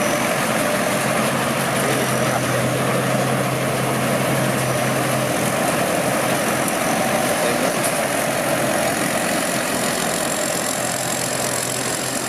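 Large rice combine harvester's diesel engine running steadily at work, with a steady low hum that stops about five seconds in.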